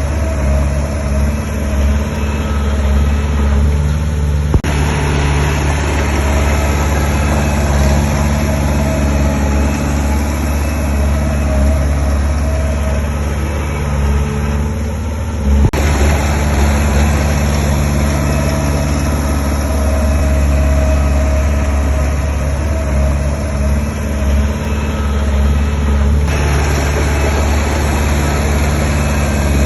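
Heavy diesel engine of earthmoving machinery running steadily, a deep drone with a few sudden shifts in tone.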